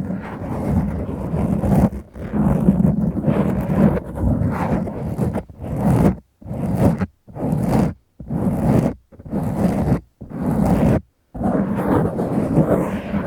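Fingers scratching and rubbing a foam windscreen on a Tascam recorder's microphone, close up. Continuous scratching at first, then separate strokes with short silent gaps between them through the middle of the stretch.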